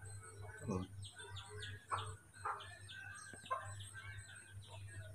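Faint chirping of birds, a few short high chirps a second, over a low steady hum.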